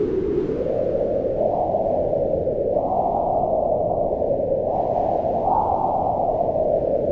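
Howling wind, a steady rush whose pitch swells upward about three seconds in and again around five and a half seconds, then sinks back near the end.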